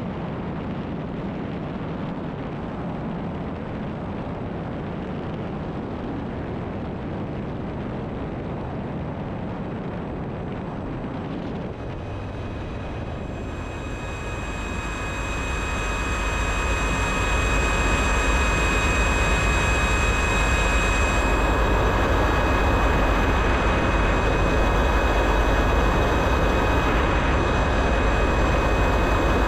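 Jet aircraft engine running with a steady roar. From about halfway through, a high turbine whine comes in, and the sound grows louder over a few seconds before holding steady, as the engine spools up.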